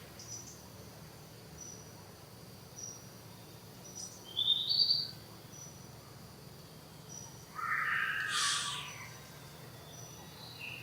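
High-pitched animal calls: a short rising chirp about four seconds in and a louder, longer cry about eight seconds in, over faint repeated high peeps.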